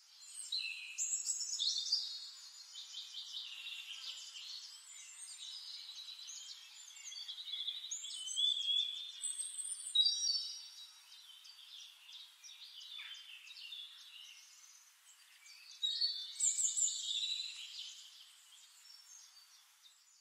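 Several birds singing at once, a busy chorus of overlapping chirps, trills and sliding whistles, with louder bursts about two seconds in, around the middle and again near the end.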